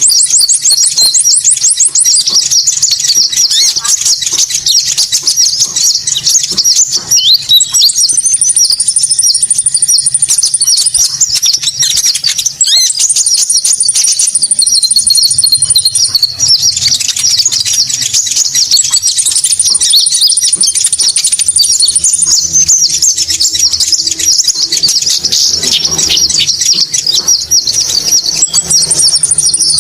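Bird-call lure recording of Konin birds: dense, rapid high-pitched chirping and twittering, loud and continuous, with a thin, very high steady note held for two to three seconds that returns about every five to six seconds.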